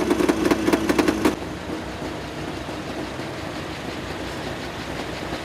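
Vintage car engine idling with a steady hum and fast, even ticking, cut off abruptly about a second in by a quieter, steady low engine sound from another old car moving slowly.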